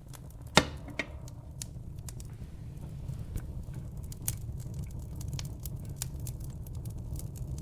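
Fireplace fire crackling, with scattered sharp pops over a steady low rumble of the flames. There is one loud pop about half a second in.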